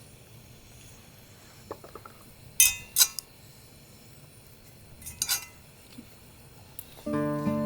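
Metal cutlery clinking against a dish or pan: a few scattered sharp clinks, the loudest close together about three seconds in and again past five seconds. Guitar music comes in near the end.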